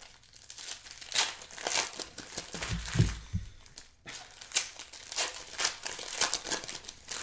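Plastic trading-card pack wrappers being crinkled and torn open by hand, in irregular rustling bursts.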